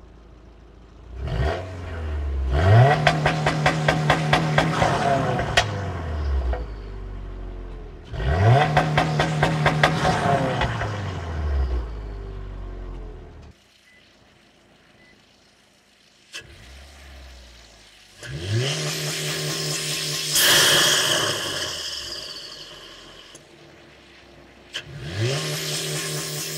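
2022+ Subaru WRX's turbocharged 2.4-litre flat-four, on an E85 tune with an aftermarket J-pipe, revved up four times to its 4,500 rpm launch control limit. Each time it holds there with the limiter stuttering rapidly, then drops back to idle. The first two are heard at the exhaust tips; after a short silence the last two are heard at the engine cowl, with a high whine over the engine.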